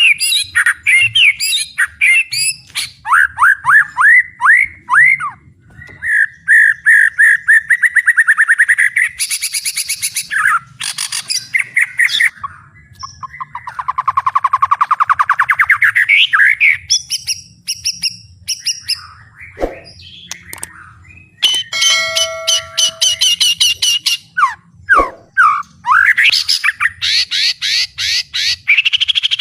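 White-rumped shama singing loudly in a long, varied song of rapid repeated notes, quick pitch sweeps and trills, with a long rolling trill about halfway through.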